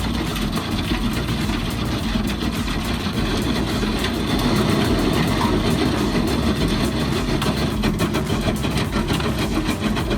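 Heavy diesel engine of a large earthmoving machine running steadily.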